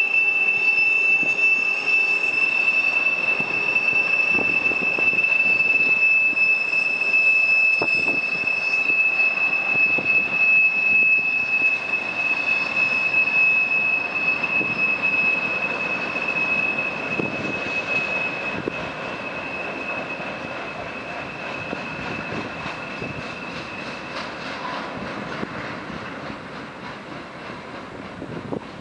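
Freight train rolling past with a steady high-pitched squeal of steel wheels on the rails over a rumbling clatter of the cars. It is loud at first, then fades over the last several seconds as the squeal dies away.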